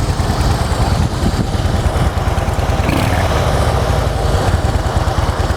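2013 Harley-Davidson Softail Deluxe's V-twin engine idling steadily through its factory exhaust, a fast, even low pulsing.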